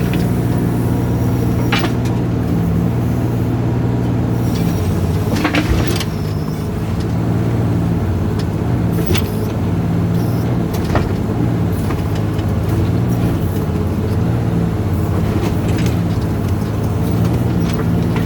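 Diesel engine of a Volvo mini excavator running steadily while it digs, with a few sharp knocks and clunks scattered through.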